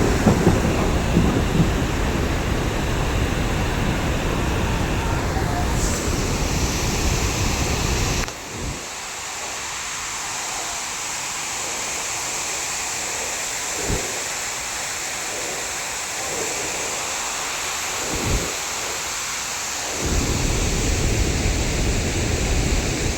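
Steady rushing roar of a waterfall, with wind buffeting the microphone and adding a heavy low rumble for the first eight seconds or so and again near the end.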